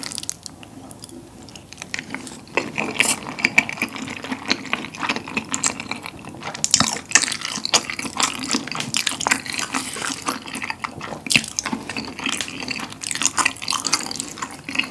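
Close-miked wet chewing of glass noodles in thick spicy tteokbokki sauce: quick sticky smacks and squelching mouth clicks, sparse at first and busier from about two seconds in.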